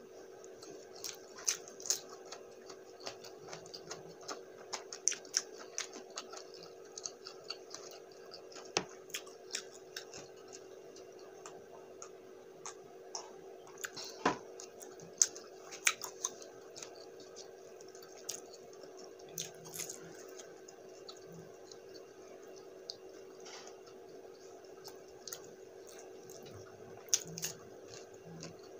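Close-miked eating sounds: a person chewing spicy buffalo wings and rice, with frequent sharp mouth clicks and wet smacks, over a steady hum.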